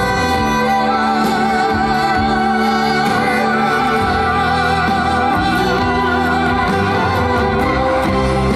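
A woman singing a trot song live over an amplified band backing track, holding one long note with a wide vibrato for several seconds before the melody moves on.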